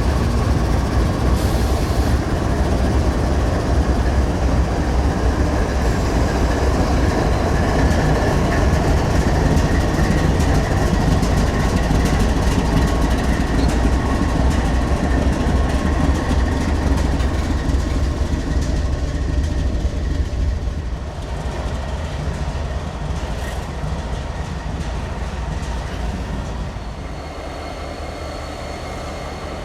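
Freight train rolling past: continuous rumble with rapid clacking of wheels over the rails. About two-thirds of the way through it eases off and grows quieter as the train moves away.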